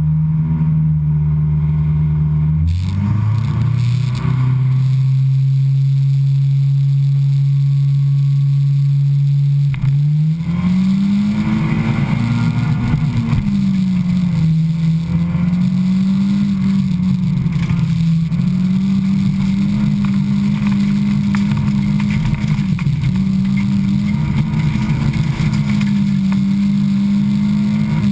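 Honda Civic race car's engine heard from inside the cabin. It holds steady revs for about ten seconds, then pulls away with the revs rising and keeps rising and falling as it races on dirt.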